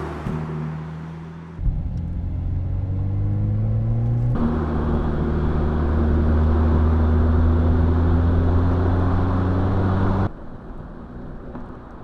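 Mercedes-AMG SL 43's turbocharged 2-litre inline four-cylinder under acceleration: the engine note rises, steps about four seconds in, then climbs slowly again before cutting off abruptly near the end.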